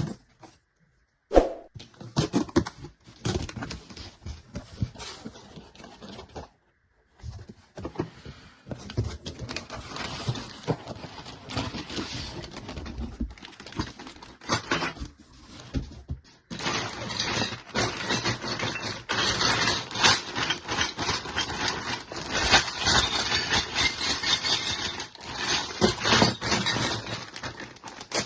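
Crinkling and rustling of plastic packaging with frequent clicks and taps of small plastic toy pieces being handled. The handling gets busier and louder a little past halfway.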